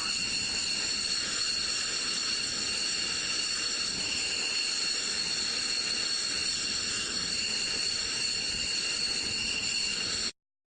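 Steady jet engine noise: an even hiss with a high-pitched whine of several steady tones, cutting off abruptly about ten seconds in.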